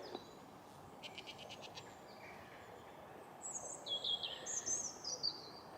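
Faint birdsong: a short, rapid ticking trill about a second in, then a few high, gliding chirps from about three and a half seconds in, over a low background hiss.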